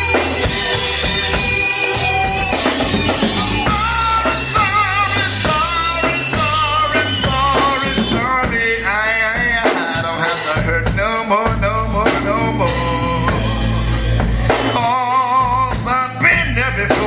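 Gospel quartet band playing with drum kit and bass under a steady beat, while a lead melody line with heavy vibrato wavers over it.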